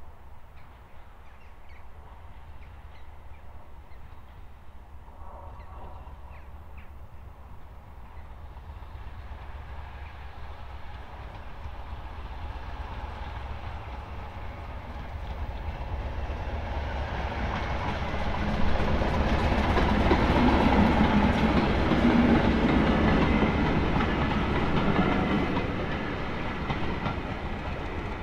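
A train hauled by locomotive 1317 approaching and running past, growing steadily louder over about twenty seconds. It is loudest from around two-thirds of the way in, then eases off slightly near the end.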